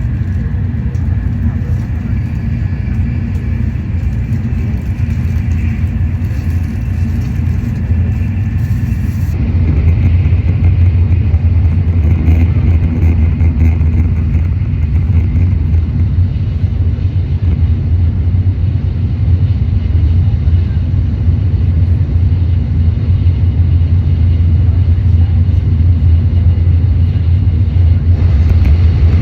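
Steady low rumble of a Shinkansen Nozomi bullet train running at speed, heard inside the passenger cabin; it grows louder about nine seconds in.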